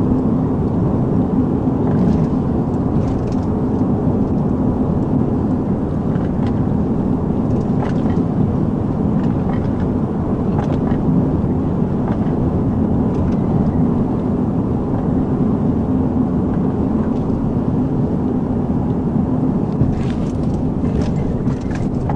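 Police patrol car driving at speed: continuous engine and tyre noise with a steady low drone.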